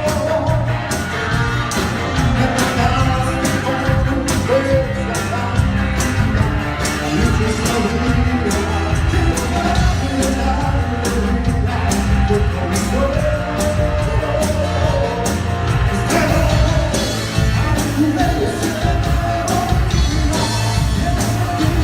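Live cumbia band playing, with a steady bass and percussion beat under a melody line.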